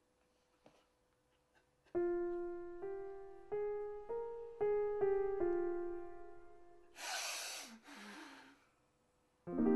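Slow piano notes struck one after another, each dying away, starting about two seconds in. About seven seconds in comes a harsh, breathy rush of noise in two parts, and a low piano chord is struck near the end.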